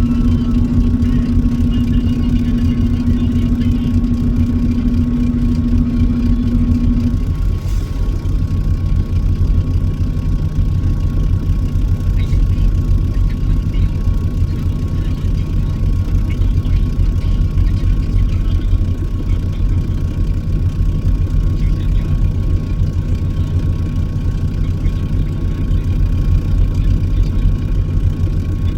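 Steady low drone of a truck engine running, heard from inside the cab, with a higher hum that stops about seven seconds in.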